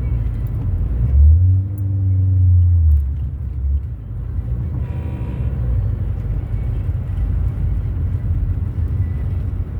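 Steady low road and engine rumble inside a moving car, with a louder low drone from about one to three seconds in that rises and falls slightly in pitch.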